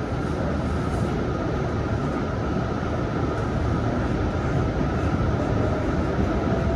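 MBTA Green Line light rail car running along the track, heard from inside: a steady rumble of wheels on rail and running gear, with a faint steady hum higher up.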